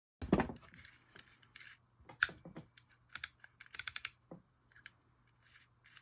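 Light clicks and taps of a fishing reel's small metal parts and screws being handled and fitted during reassembly, with a quick run of clicks a little before four seconds in.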